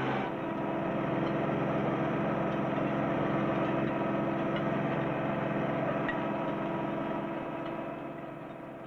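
Ford 1210 compact tractor's three-cylinder diesel engine running steadily, then fading away near the end.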